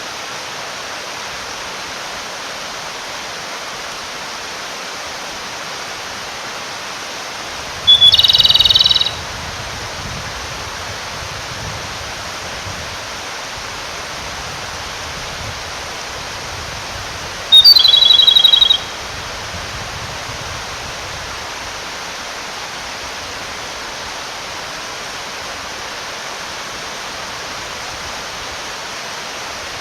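Male Japanese robin singing to call a female: two short phrases about ten seconds apart, each a single note breaking into a rapid trill about a second long, over the steady rush of a clear mountain stream.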